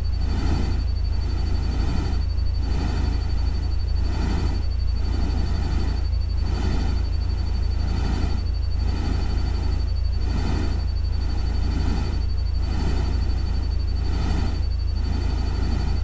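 Looped nature-sound ambience of rain and running water: a steady low rumble under a rushing wash that swells about once a second, with a steady thin high tone throughout.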